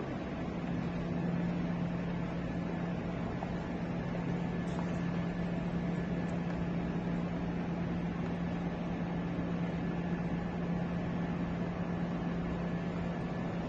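Steady low hum over an even hiss: room tone, with no change throughout.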